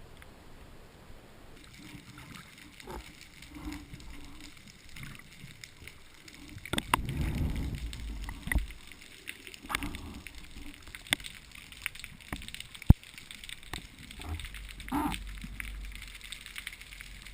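Water sloshing and splashing, with scattered clicks and knocks from handling gear, a louder low rush about seven seconds in and one sharp click near the end.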